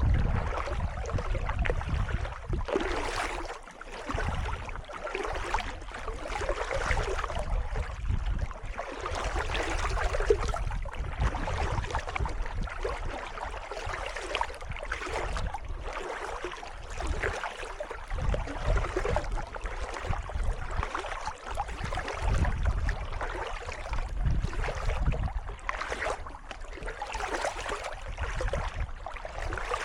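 Kayak paddle strokes splashing and dripping in calm water, repeated throughout, with a low rumble underneath.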